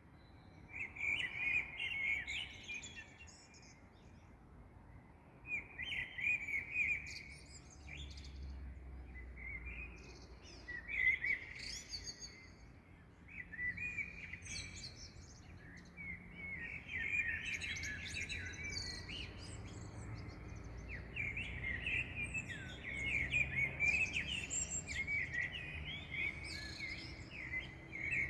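A dawn chorus of several small songbirds chirping and twittering in short, overlapping bursts of song, over a faint low background rumble.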